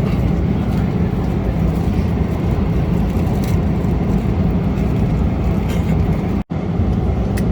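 Steady rumble and rush of cabin noise inside a Boeing 777-300ER airliner in cruise flight. The noise drops out for an instant about six and a half seconds in, then carries on unchanged.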